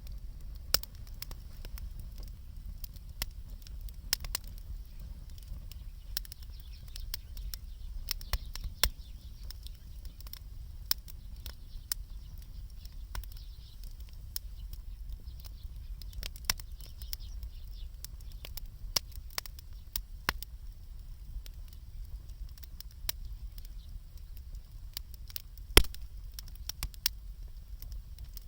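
Wood fire crackling, with irregular snaps and pops over a low steady rumble, and one sharp, louder pop near the end.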